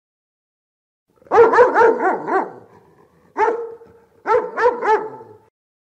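An animal barking: a quick run of about five barks, a single bark, then three more.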